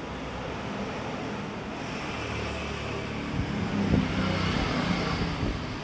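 Electric fan running fast, its airflow rushing over the microphone along with a low motor hum. The rush grows louder about two seconds in.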